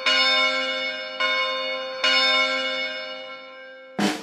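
Bell tones struck three times, about a second apart, each ringing and fading away, followed near the end by a single sharp hit.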